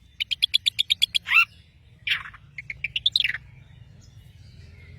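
Long-tailed shrike singing in a lively burst: a fast rattle of about a dozen sharp chirps, then slurred falling notes and a shorter run of chirps, stopping about three and a half seconds in. A steady low hum runs underneath.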